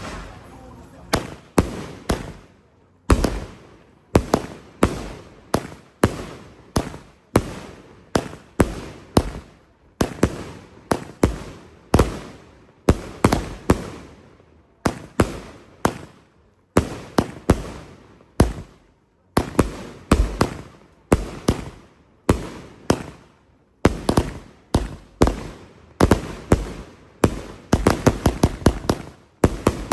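Multi-shot consumer firework cake firing shot after shot, about one to two a second, each a sharp report that fades quickly. Near the end the shots come rapidly one on another in a finale.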